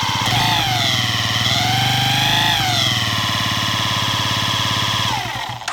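Yamaha Jog ZR 50cc scooter engine running with an abnormal noise, a strong whine over the firing that dips and rises with the throttle, before repair. Near the end it falls away and stops abruptly.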